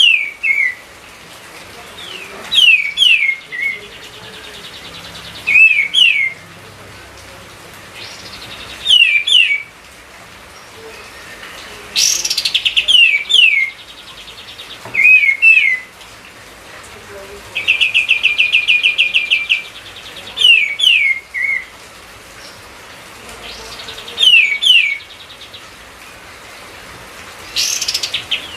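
Kapas tembak bulbul singing vigorously: short phrases of paired falling whistled notes repeated every few seconds, with a fast buzzy rattle about two thirds of the way through.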